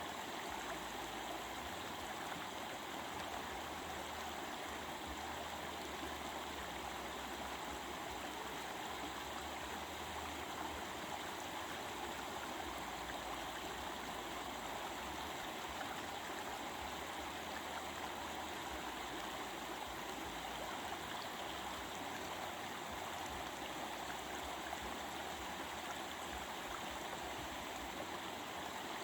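A stream of flowing water babbling steadily, an even rush with no breaks.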